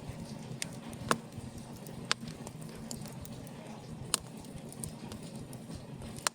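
Wood fire in an open fireplace crackling, with sharp pops about a second in, about two seconds in, about four seconds in and near the end, over a steady low rush of the burning fire.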